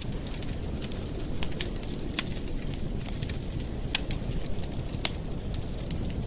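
Campfire burning: a steady low rumble of flames with frequent sharp crackles and pops of burning wood at irregular intervals.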